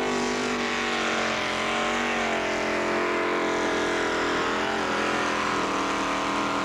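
Tractor engine working hard under load while pulling the sled, its pitch wavering and dipping about a second or two in as it nearly bogs down, then running steadier.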